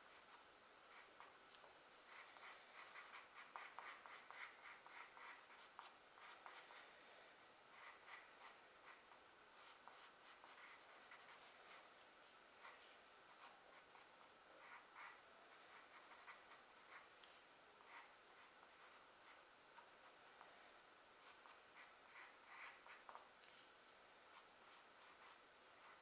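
Charcoal pencil scratching on drawing paper in many short, quick strokes; faint.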